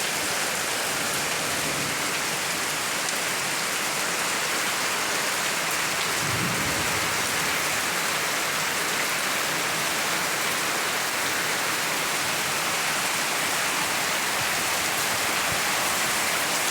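Heavy rain mixed with hail beating down steadily, with a brief low rumble of thunder about six seconds in.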